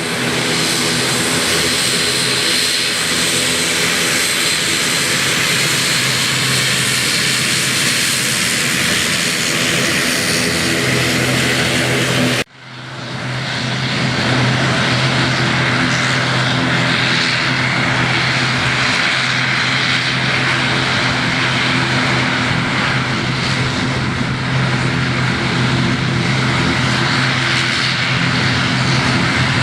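ATR 72-500 twin turboprop, with Pratt & Whitney PW127-series engines, running steadily: a constant hum with several held propeller tones under a hiss. About twelve seconds in, the sound drops out briefly and then swells back.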